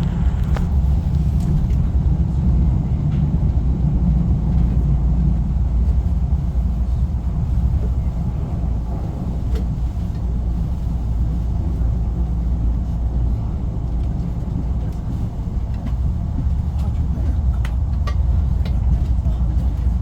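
Honam Line Saemaeul passenger train running: a steady low rumble with occasional faint clicks.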